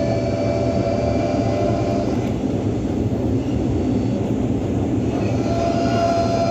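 Caio Millennium II articulated bus on a Scania K310UA chassis running, heard from inside: a steady drive noise with a whine that weakens in the middle and comes back near the end.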